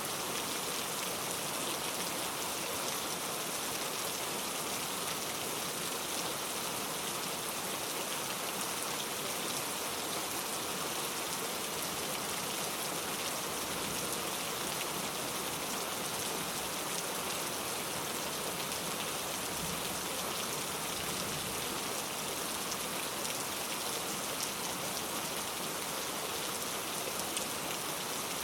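Steady heavy rain without thunder, an even wash of falling rain with fine drop patter on surfaces.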